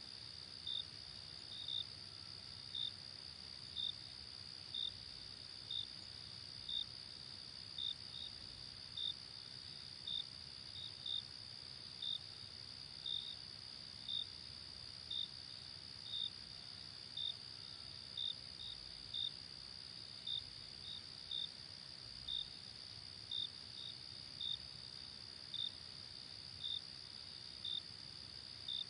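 Night insect chorus: a steady high-pitched trill, with a cricket chirping over it about once a second, sometimes twice in quick succession.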